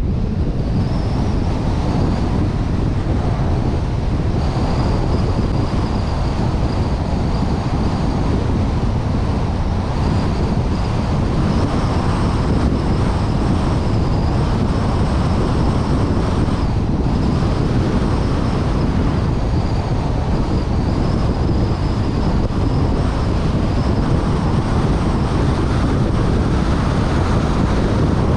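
Wind buffeting the microphone of a vehicle-mounted camera during a drive, with road and engine noise from the moving vehicle underneath. A steady rushing that does not let up.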